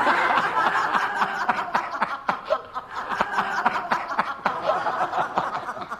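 A group of several people laughing together, loud at first and trailing off near the end.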